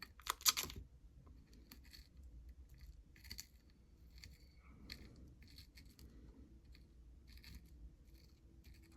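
Faint, irregular scratching and small clicks of kinetic sand being pressed and spread by fingers in a small plastic dish. A couple of louder clicks come in the first second.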